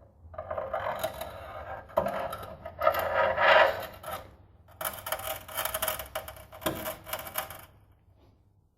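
Scraping and rubbing in two long spells, with a sharp knock about two seconds in and another near the end of the second spell.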